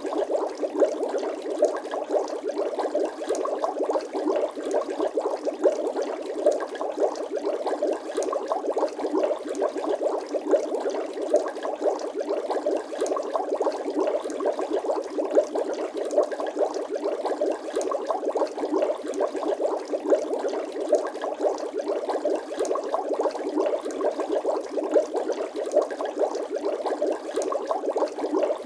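Bubbling water sound effect: a dense, unbroken stream of small bubbles gurgling and popping.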